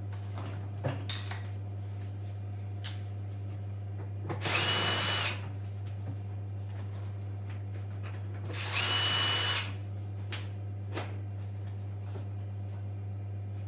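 Cordless drill-driver running in two short bursts of about a second each, a few seconds apart, each with a steady motor whine. A few light clicks come between them.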